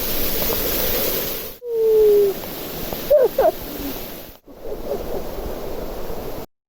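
Steady rush of a waterfall's falling water. It breaks off briefly twice, has a few short pitched sounds over it around the middle, and stops abruptly near the end.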